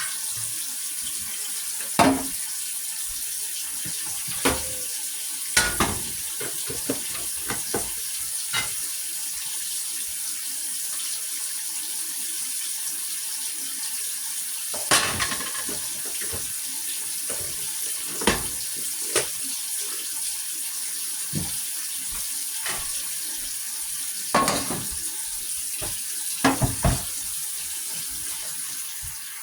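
Tap water running into a sink, with a dozen scattered knocks and clinks of handled dishes. The running water stops near the end.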